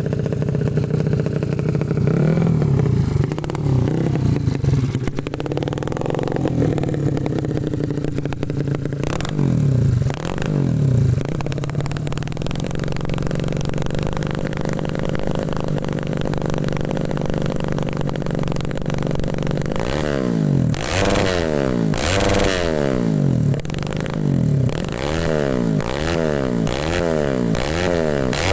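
Dirt bike engine running, revved a few times, then idling steadily, then blipped up and down in quick revs about once a second near the end.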